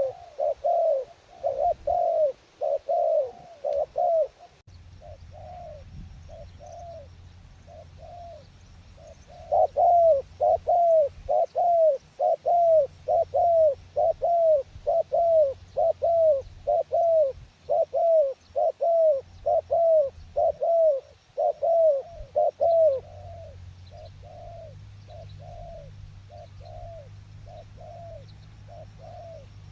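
A dove cooing in long runs of short arched coos, about two a second, thinning for a few seconds early on and then coming back loud and fast for over ten seconds. A low steady rumble sits underneath from about five seconds in.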